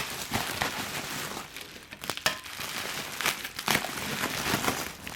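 Plastic and foam packing material crinkling and rustling as exhaust parts are handled and unwrapped, with a few sharper crackles.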